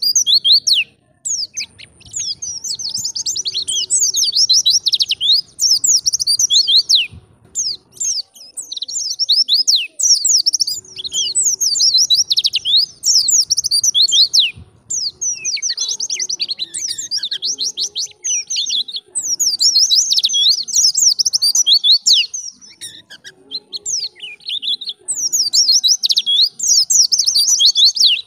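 White-eye (pleci) singing a fast, twittering song of rapid high chirps in long bouts. The song breaks off briefly about a second in and around eight, fifteen and twenty-two seconds in.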